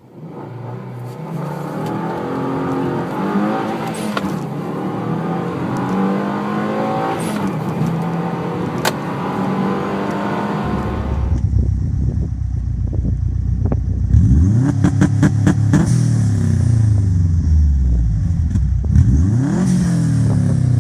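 Turbocharged Subaru Impreza boxer four-cylinder engine revving, its pitch rising and falling. About eleven seconds in the sound changes to a deeper, louder engine note with a series of quick rev blips, each climbing and dropping back.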